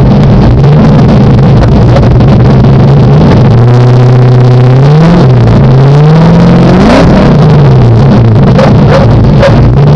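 Ford Mustang exhaust through Magnaflow mufflers, loud: the engine runs near idle, then is revved twice about halfway through, its pitch rising and then falling back.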